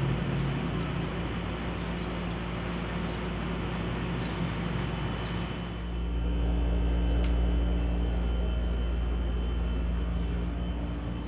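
A vehicle running along the road, a steady engine hum under road noise, with wind rumbling on the microphone that grows louder about halfway through. Faint ticks repeat about once or twice a second in the first half.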